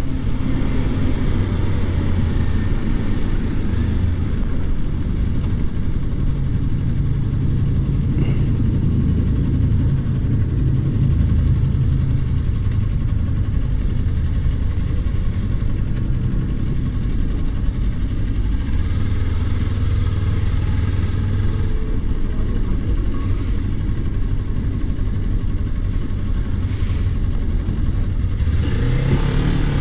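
Kawasaki Ninja 400's parallel-twin engine running under way at fairly steady revs, with rushing road and wind noise; near the end the engine note rises as it accelerates.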